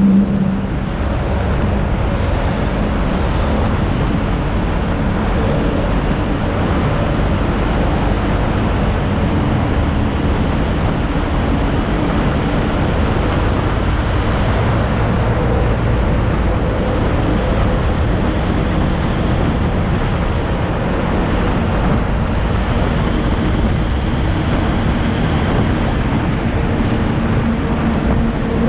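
Motorcycle on the move: a steady rush of wind and road noise over the engine's hum, with no marked revving or gear changes.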